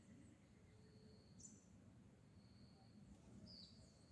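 Near silence: faint outdoor ambience with a couple of short, high bird chirps and a faint steady high insect-like tone.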